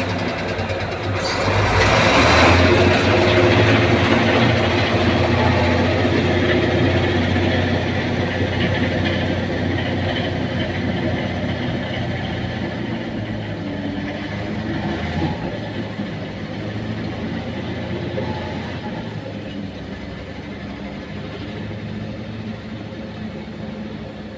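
Heavy vehicle engine running steadily with a low drone, loudest about two seconds in, then slowly fading.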